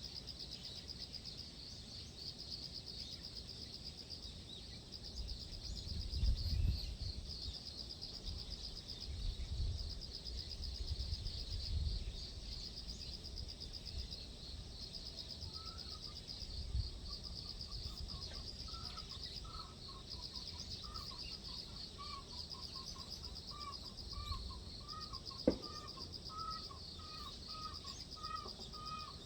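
Outdoor natural ambience: insects trilling steadily with a fine, fast pulse, and wind gusts on the microphone. About halfway through, a bird starts calling in a long run of short repeated notes, roughly two a second. A single sharp click comes near the end.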